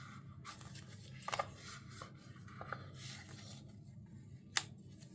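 Faint rustling and rubbing of paper stickers being handled on a journal page, with a few light taps and one sharp click near the end.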